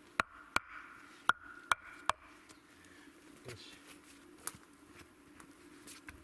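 Sharp knocks of a tool striking wood: five quick irregular hits in the first two seconds, then two more spaced out, over a faint steady hum.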